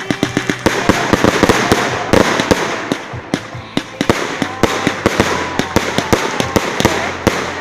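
Fireworks going off in rapid succession: a dense string of sharp crackling pops and bangs, several a second, over a continuous hiss.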